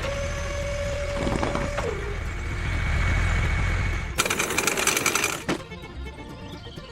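A small motor runs with a steady whine and low hum. About four seconds in there is a dense, rapid mechanical rattle lasting a little over a second, then the running sound drops lower.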